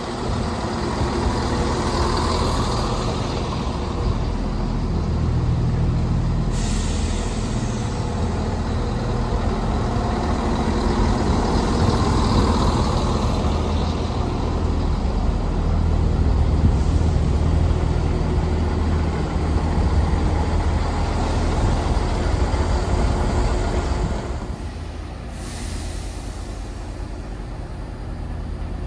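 Diesel train engine running steadily, with a hiss over it. It turns quieter near the end.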